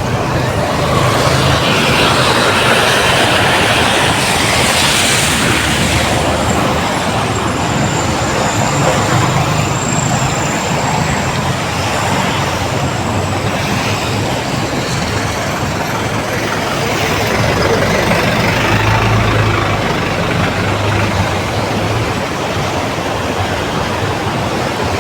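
Steady road traffic noise: a low engine hum under a continuous hiss.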